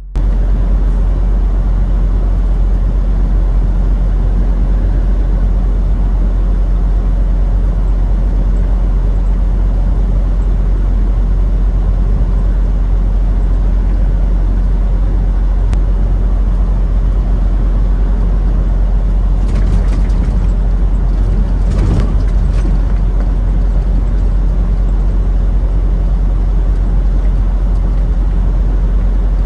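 Steady low running noise of a semi truck, with a few brief clatters about twenty and twenty-two seconds in.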